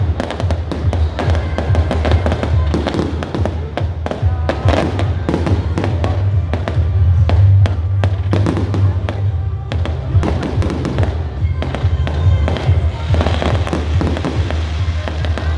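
Aerial fireworks bursting overhead: many sharp bangs and crackles in quick succession, over loud music with a steady bass and murmuring crowd voices.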